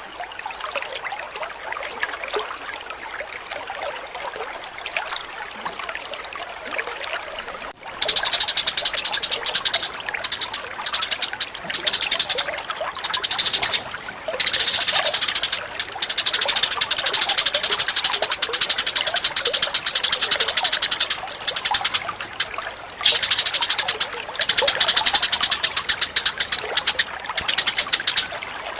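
A bird tutoring (masteran) recording: trickling water with faint chirps, then from about 8 s in a loud, very rapid, high-pitched chattering bird call in long runs broken by short pauses.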